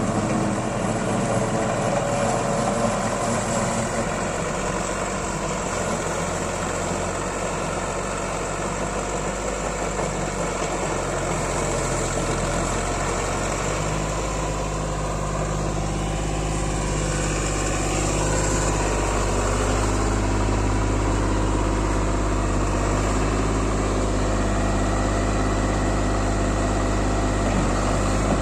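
Deutz-Fahr 50 hp two-wheel-drive tractor's diesel engine running steadily, its engine speed shifting slightly about halfway through.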